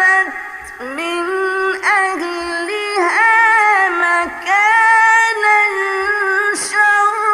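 A high voice holding long, wavering notes one after another, each about a second long, sliding up or down between them with short breaks.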